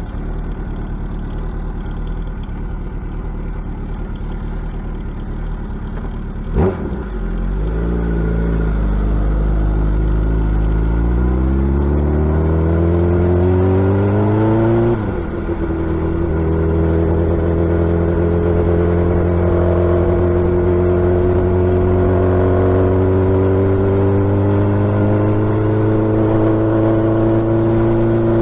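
Suzuki Hayabusa inline-four engine under way. It runs low at first, then pulls up steadily in revs for several seconds, breaks off briefly at a gear change about halfway through, and settles into a steady higher cruising note that creeps slowly upward.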